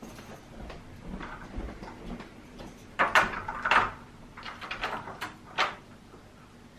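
A door being opened: a series of sharp clicks and knocks from the latch and handle, the two loudest about three seconds in, followed by a few lighter clicks.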